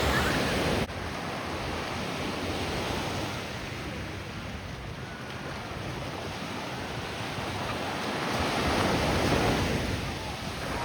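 Ocean surf breaking and washing up on the beach, with wind on the microphone. A louder rush in the first second cuts off sharply, and the surf swells louder again near the end.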